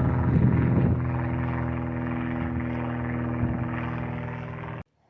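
An engine or motor running steadily with a constant-pitched hum, rougher for about the first second, then cutting off suddenly near the end.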